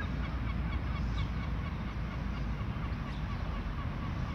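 Many short bird chirps over a low, steady rumble.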